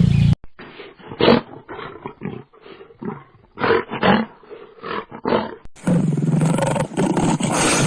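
A large wild animal's deep calls, in a series of short, separate grunts. From about six seconds in they give way to a longer, continuous call from another recording.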